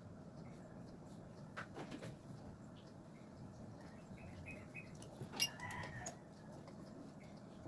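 Faint short bird calls in the background, with a few light clicks and one sharper, ringing click about five and a half seconds in.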